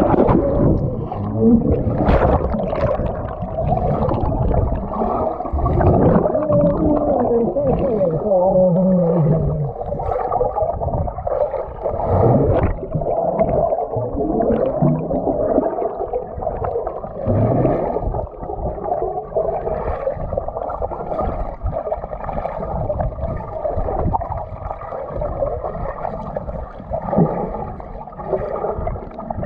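Muffled, churning water sound as heard by a microphone under or in the water, with gurgling and wavering low tones and nothing clear above a dull ceiling.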